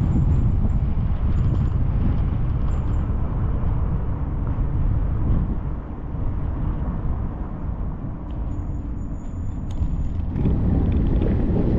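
A car driving on a mountain road: a steady low rumble of engine and tyres with wind buffeting the microphone. It eases off for a few seconds around the middle, then picks up again near the end.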